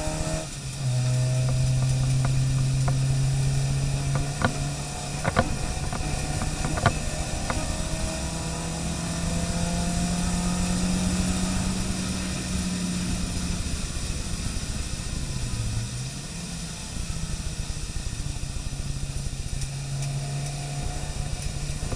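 A car engine running on a race circuit, held at a fairly steady note that rises and falls slowly, with a brief dip about two-thirds of the way through. A few sharp clicks sound several seconds in.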